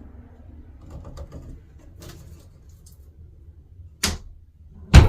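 Low rumbling handling noise with faint clicks, then two sharp knocks near the end, about a second apart, the second the loudest.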